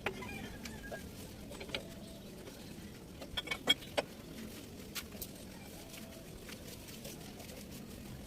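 A faint background with a handful of sharp clicks or taps, the loudest a quick cluster about three and a half seconds in and another single tap about a second later.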